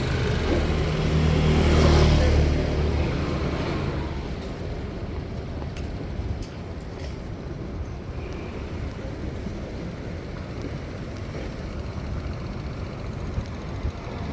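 A motor vehicle passes close by, its engine and tyre noise swelling to a peak about two seconds in and fading. Steady street traffic noise follows.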